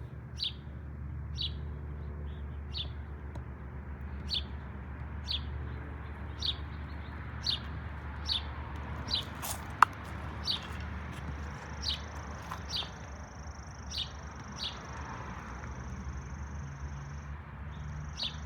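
A bird chirping over and over, a short falling chirp roughly once a second, over a low steady hum. A sharp click about halfway through is the loudest moment, and a thin, steady high whine joins in the second half.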